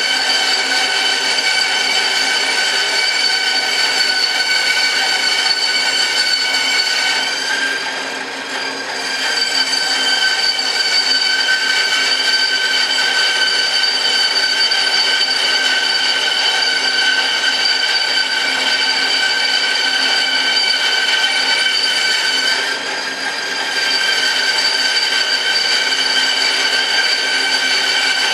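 A woodworking power tool running with a steady high whine, the level dipping briefly twice, near the middle of the first third and again about three quarters through.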